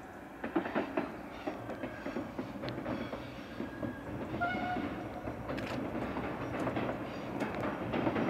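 Passenger train of two coupled multiple units crossing a steel truss railway bridge: a steady running rumble with the wheels clicking and clattering irregularly over the rails, growing slowly louder as it comes on. A brief high tone sounds about four and a half seconds in.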